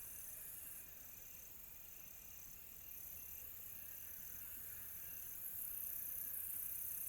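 Crickets chirping in a steady night chorus: one high trill comes in repeated pulses of about a second, over fainter lower insect tones. A higher hiss of insects steps up in loudness about five and a half seconds in.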